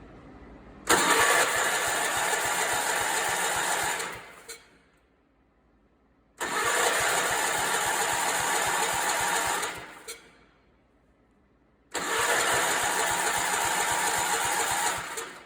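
Allis-Chalmers 416 garden tractor engine being cranked by its starter three times, each try lasting about three and a half seconds, without catching. The owner puts the failure to start down to a carburetor problem.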